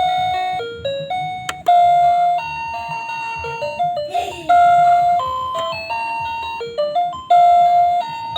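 A slow, tinkling melody of single bell-like chime notes, each struck sharply and fading away. About four seconds in, a brief noisy sound with a falling pitch cuts across it.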